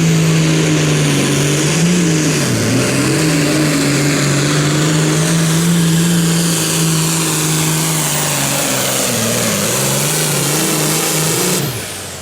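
Super Farm pulling tractor's Minneapolis-Moline engine running flat out under load down the pulling track. Its pitch sags and recovers a few times as the sled bears down, then the sound drops off suddenly near the end as the engine is shut down.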